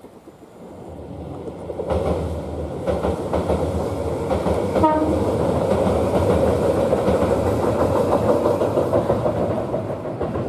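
Tobu 8000 series electric train crossing a railway bridge: the rumble builds from about a second in to a steady loud roar of wheels on the rails, with clacks at the rail joints and a brief tone about five seconds in.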